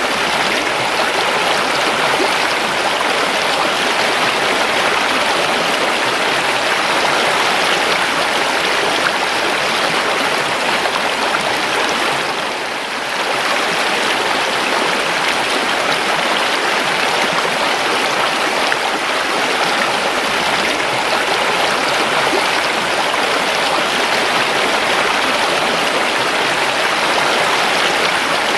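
River water flowing steadily over rocks, an even rushing stream sound, dipping briefly in level about halfway through.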